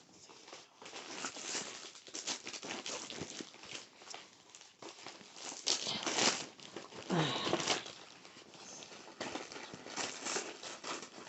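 Close-miked crinkling and tapping as trading cards and small collectible items are handled, in uneven rustling surges.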